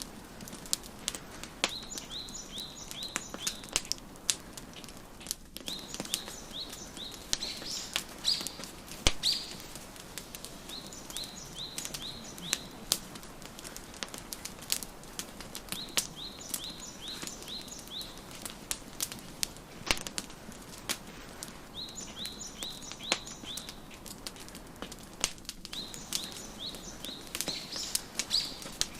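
A wood fire crackling, with frequent sharp pops over a low hiss. A songbird sings a short phrase of quick, high, falling chirps, repeated about every four to five seconds.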